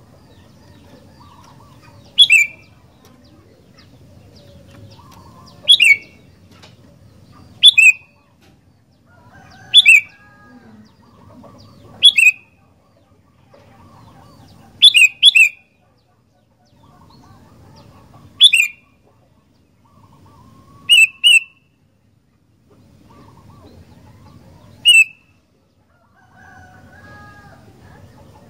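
Sooty-headed bulbul (kutilang) giving loud, short, sharp calls every two to four seconds, some in quick pairs, with a faint low background between calls.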